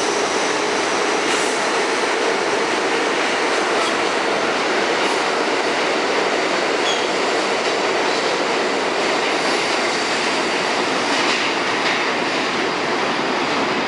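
R32 subway cars of a C train running along the track: a loud, steady rumble of steel wheels on rail, with a few faint clicks over rail joints.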